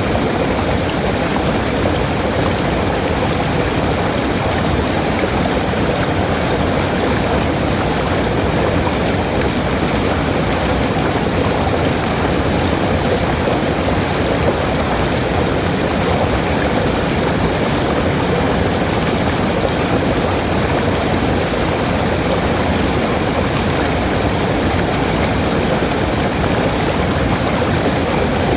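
Waterfall: water falling and rushing in a steady, unbroken roar, loud and even throughout.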